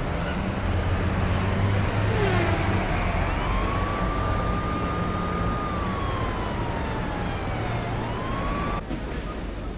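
City street ambience of steady road traffic, with a distant siren wailing slowly up and down. The sound drops abruptly to a quieter hum near the end.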